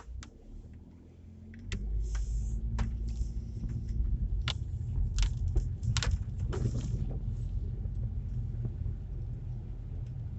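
Low road and engine rumble inside a car cabin, coming in strongly about two seconds in and running steadily, with scattered light clicks and rattles over it.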